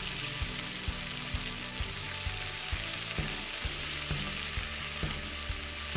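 Ginger-garlic paste sizzling steadily as it fries in hot oil with whole spices over medium heat in a non-stick pan, stirred with a silicone spatula, with a few faint ticks from the stirring.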